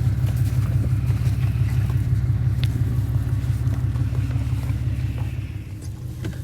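Ranch pickup truck's engine idling with a steady low rumble, easing slightly about five and a half seconds in.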